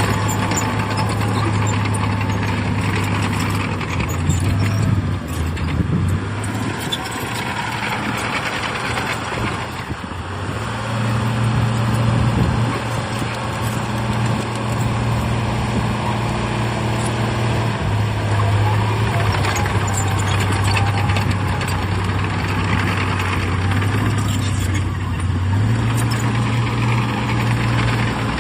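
Heavy diesel engine of earthmoving machinery running steadily under load, its engine speed stepping up and down several times.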